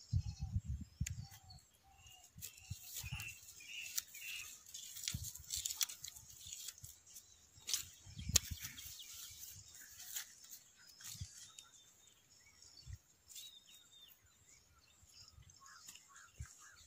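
Faint, scattered bird chirps in the open air, with irregular low thumps, strongest at the start and again about eight seconds in.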